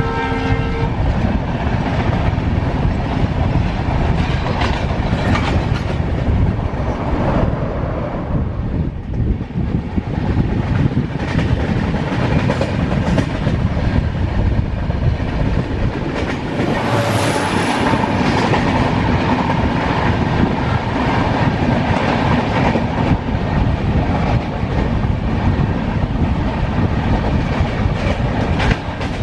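Passenger train running on the rails: a steady rumble of wheels on track with a clickety-clack of rail joints, and a brief high whine about seventeen seconds in.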